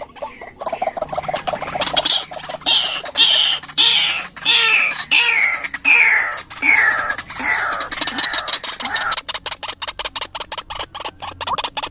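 White-breasted waterhen (ruak-ruak) lure call: a run of repeated harsh calls, each falling in pitch, a little under two a second, over a constant crackle of clicks. The calls die away about three-quarters of the way through, leaving mostly the crackle.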